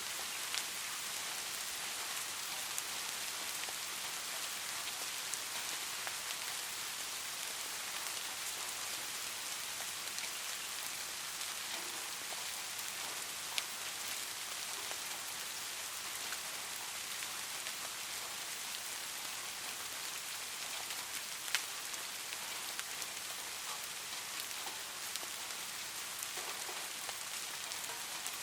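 Steady light rain: an even hiss of falling rain speckled with scattered drop ticks, with a couple of louder single drops about halfway and about three-quarters of the way through.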